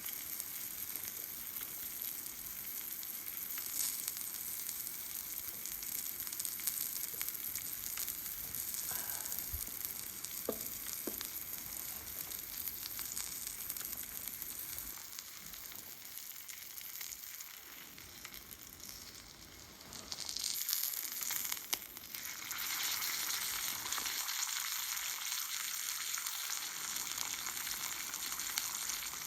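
Food sizzling as it cooks, a steady hiss that softens about two-thirds of the way through and then comes back stronger.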